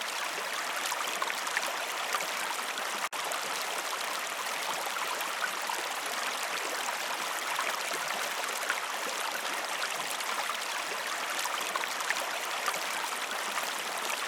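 River water flowing and babbling steadily, with a split-second gap about three seconds in.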